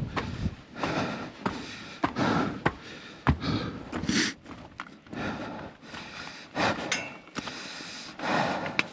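A hiker's footsteps going down trail steps, irregular knocks with breathing close to the microphone.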